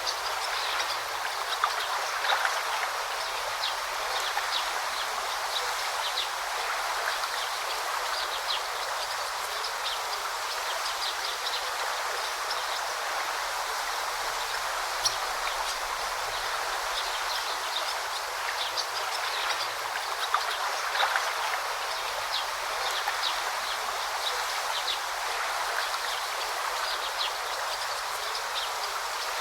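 A river or brook running steadily, a continuous rush of water. Many short, high chirps from birds are scattered over it.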